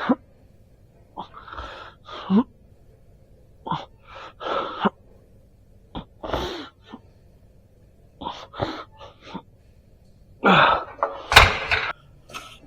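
A person's short, breathy gasps and groans in clusters, a few sliding down in pitch, with a sharp knock about three quarters of the way in.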